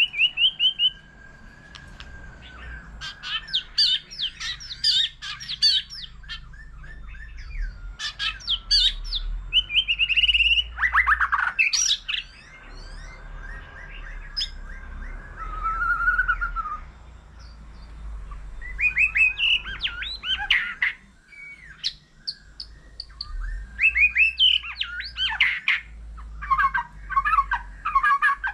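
White-rumped shama singing in bursts of rapid, varied phrases, clear whistles mixed with fast chattering trills, separated by short pauses.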